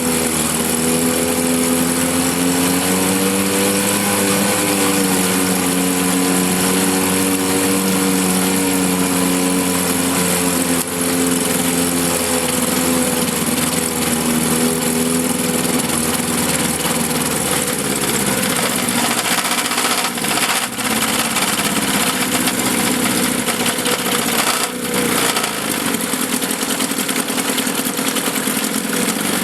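1954 Johnson CD-10 5.5 hp two-cylinder two-stroke outboard motor running steadily in a test barrel. Its note changes about two-thirds of the way through, the deeper hum dropping away.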